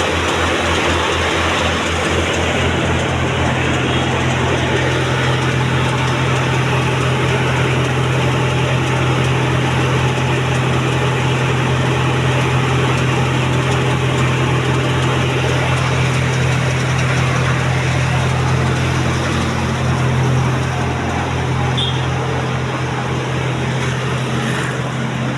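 Tractor engine running steadily while driving a sewer suction machine that is drawing water, its low hum deepening and strengthening about two seconds in, over a constant rushing hiss.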